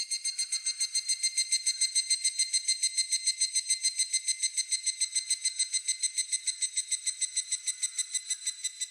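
Higurashi (evening cicada) giving its ringing 'kana-kana-kana' call: a fast run of about eight pulses a second that holds steady, then eases off and stops near the end.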